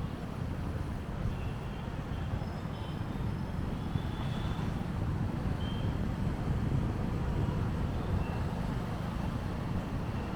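Steady low rumble of a motorbike riding through city traffic, with brief faint high tones now and then.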